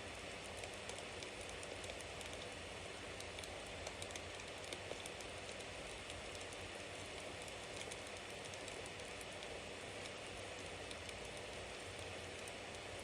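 Bonfire burning: a steady hiss with frequent small crackles and pops from the burning wood.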